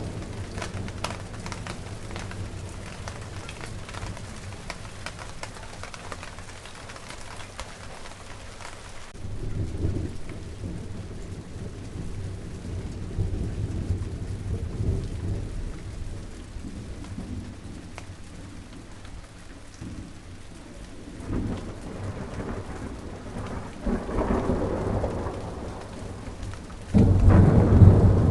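Steady rain falling in a garden, with fine drop patter. Low rumbles swell in and out over it like thunder, and near the end the sound becomes abruptly much louder and deeper.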